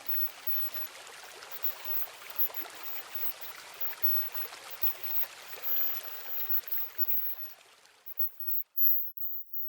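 Rain falling steadily, a fine even patter of drops with no music, fading out about eight seconds in.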